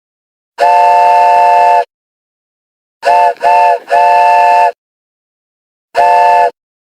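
Air horn sounding a chord of several tones in blasts: one long blast, then two short ones and a long one, then a short one near the end.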